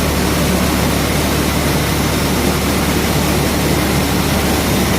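Tractor-driven rice mill running: a loud, steady mechanical noise with a deep engine hum under it.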